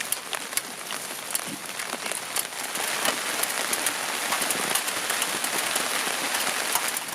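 Steady rain falling on a nylon tarp, full of sharp taps from single drops, growing a little heavier in the second half.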